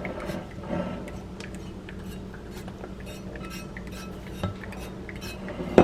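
Dishes and kitchen utensils clinking and knocking lightly a few times, with a sharper knock at the very end, over a steady low hum.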